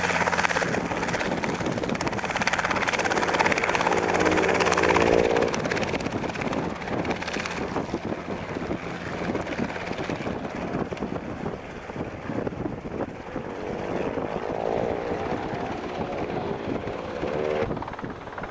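Robinson R22 helicopter running, its rotor giving a rapid continuous beat over the engine's hum. It is louder for the first five seconds, where a steady low engine drone stands out, then continues somewhat quieter.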